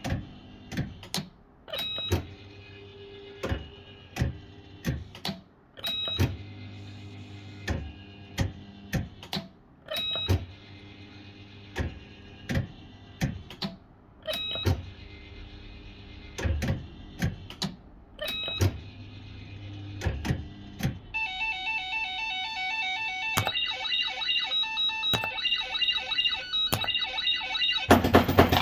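Bell-Fruit FireCracker fruit machine in play: a low hum of the reels spinning, broken by sharp clicks roughly every second and short electronic beeps. About two-thirds of the way in it breaks into a fast electronic tune of repeating beeps that grows louder, with a loud noisy burst right at the end.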